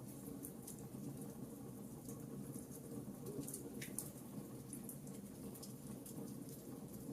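Wood fire crackling in a fireplace: irregular small pops and snaps over a soft, steady low rumble of the flames.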